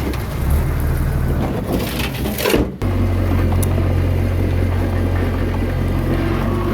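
Komatsu D21A bulldozer's diesel engine running with a steady low hum. It cuts off sharply for an instant almost three seconds in, then runs on evenly.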